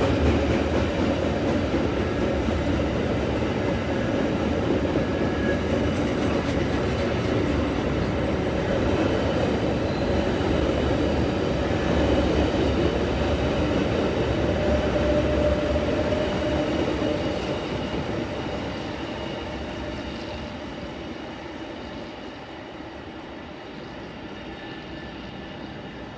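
Freight train rolling past on the rails, a steady loud noise that dies away over the last third as the train moves off.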